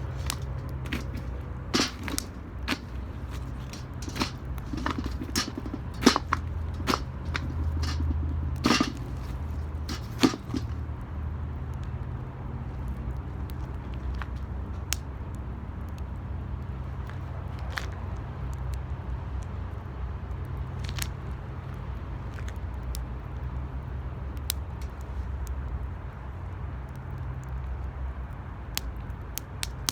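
Wood fire burning in a metal 18-litre can, crackling and popping over a steady low rumble. The crackles come thick and fast for about the first ten seconds, then thin out to occasional pops.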